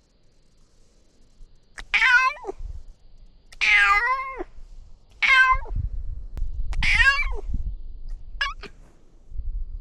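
Domestic cat meowing repeatedly: four drawn-out meows that rise and fall in pitch, then a short one near the end, with a low rumbling underneath the later calls.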